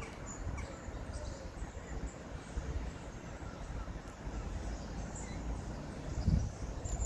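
Outdoor garden ambience: a steady low rumble with faint, short, high-pitched chirps of small birds scattered through it.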